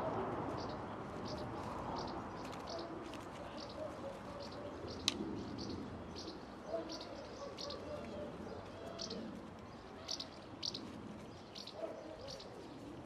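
A small bird chirping over and over, short high chirps about twice a second, with a single sharp click about five seconds in.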